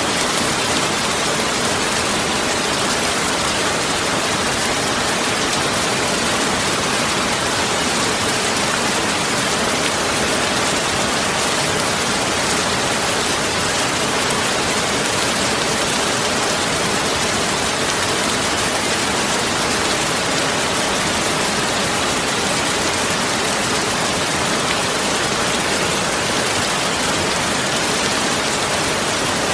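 Heavy rain falling steadily, an even hiss of downpour with no thunder.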